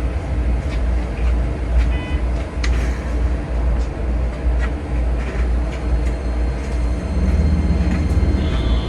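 Keikyu 2100-series train heard from the driver's cab in a heavy rainstorm: a steady deep rumble with scattered sharp ticks and knocks. A new, steadier hum joins about seven seconds in.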